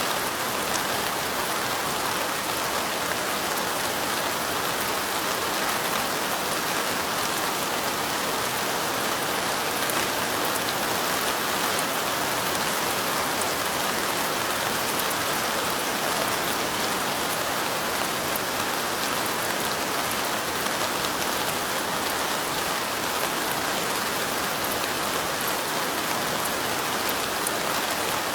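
Steady light rain falling on window glass, an even hiss of rain with fine ticks of single drops.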